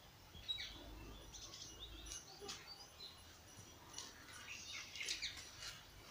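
Faint chirping of small birds: many short, high calls scattered throughout, with a few light clicks among them.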